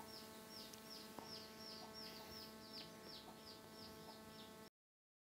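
A bird calling a fast, even series of short, high, falling chirps, about three a second, over a faint steady hum. The sound stops suddenly near the end.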